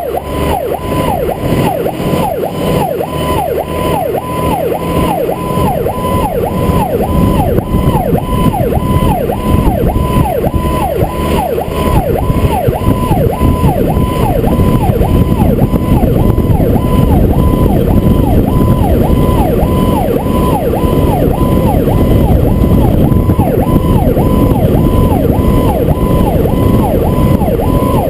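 Fire truck's electronic siren sounding a fast, repeating rise-and-fall wail, over the truck's engine and road noise, which grow louder about twelve seconds in.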